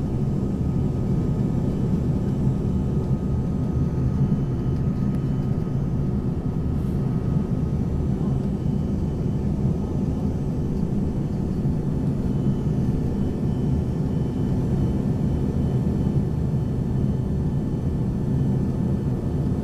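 Steady engine rumble and airflow noise inside the cabin of an Embraer ERJ-140 regional jet, from its two rear-mounted Rolls-Royce AE 3007 turbofans, with a faint steady whine above the rumble.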